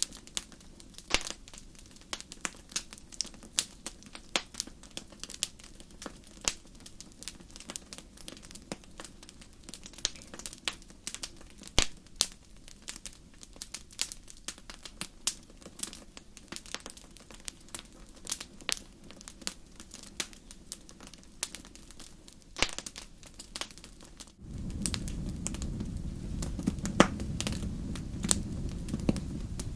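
Wood fire crackling in a fireplace, with frequent sharp pops and snaps. About twenty-four seconds in, a steady low rumble suddenly rises under the crackling.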